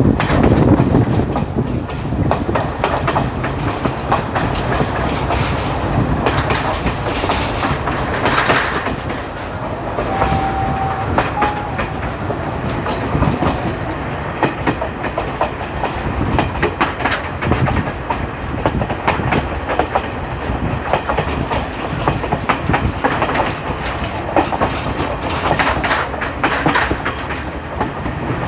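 Local passenger train running along the track, heard from on board: steady rumble with continual clickety-clack of the wheels over rail joints. A short steady tone sounds briefly about ten seconds in.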